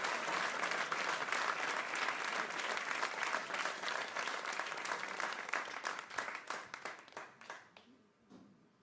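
Crowd applause, a dense patter of many hands clapping, that thins out and dies away over the last few seconds.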